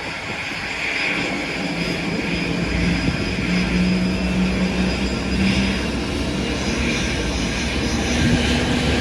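Airliner engines running steadily: a continuous rushing noise with a low hum underneath, the hum stepping up in pitch near the end.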